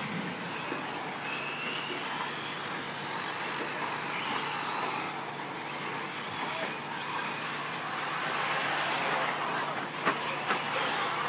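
Radio-controlled 4WD short course trucks racing on a dirt track: a steady wash of motor and tyre noise, with faint whines rising and falling as the trucks speed up and slow down. There are a few sharp clicks near the end.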